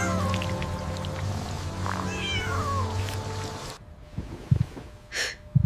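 Kitten meowing, the clearest call about two seconds in falling in pitch, over soft background music that stops a little before four seconds in.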